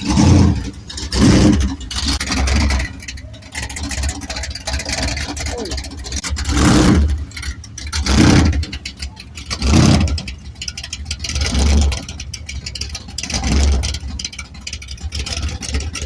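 A car engine running close by, with a steady low hum and about eight short surges of revving as the car is eased into a tight spot.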